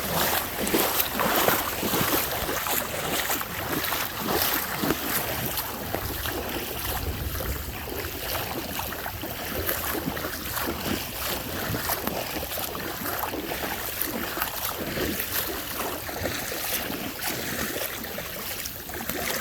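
Storm noise: a steady wash of rain and floodwater with wind buffeting the microphone, broken by many irregular taps and splashes.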